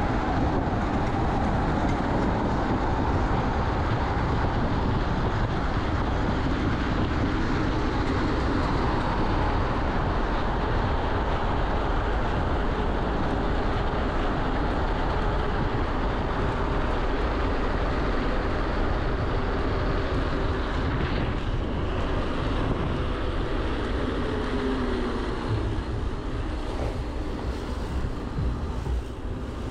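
Riding noise from an electric mountain bike at speed: a steady rush of wind and tyre rumble, with the whine of its Bafang BBSHD mid-drive motor rising and falling in pitch. The noise eases a little near the end.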